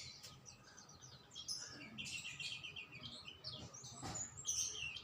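Several songbirds chirping and singing over one another, with a fast trill of repeated notes about two seconds in.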